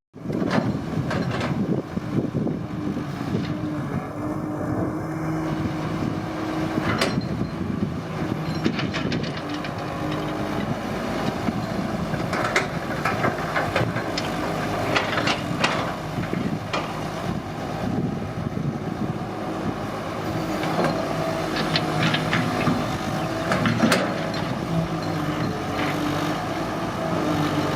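Excavator's diesel engine running steadily at work, with scattered metallic clanks and knocks over it.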